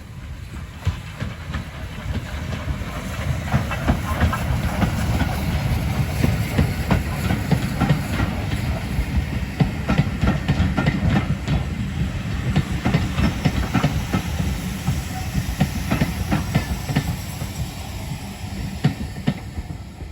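Steam train headed by Lancashire & Yorkshire Railway 0-6-0 saddle tank 11456 passing close by, its wheels clicking and clattering over the rail joints. The sound swells over the first few seconds and drops away at the very end.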